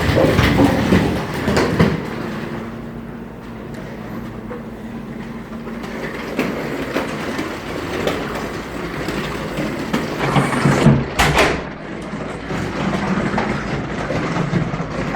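A road vehicle driving, a steady rumble of engine and road noise with some rattling, and a couple of sharp knocks about eleven seconds in.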